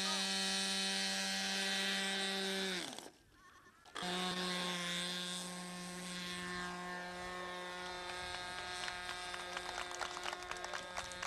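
Model airplane engine running at a steady high pitch; its pitch sags and it cuts out about three seconds in, then after about a second it is running steadily again.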